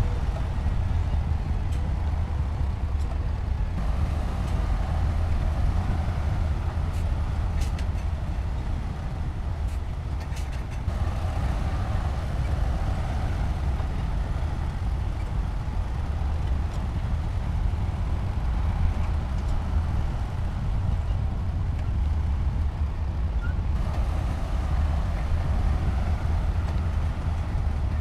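Heavy diesel engine of construction machinery running steadily with a deep drone. A harder-working, mid-pitched engine note swells from about four to eleven seconds in and again near the end, with a few faint clicks around eight to ten seconds.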